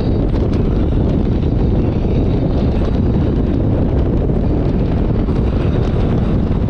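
Steady loud wind noise on the microphone of a moving motorcycle, with the bike's running and road noise mixed in underneath.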